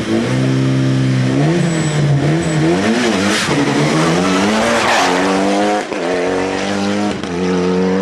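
Rally car engine revving hard, its pitch climbing, falling and wavering with the throttle, with several sudden steps in pitch like gear changes.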